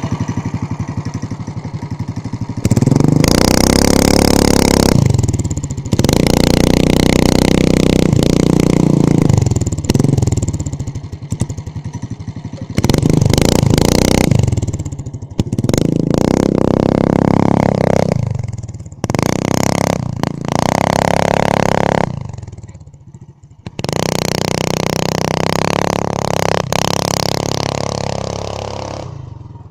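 Small engine of a homemade mini bike revving in about six bursts. Each burst rises, is held high for a few seconds, then drops back toward idle.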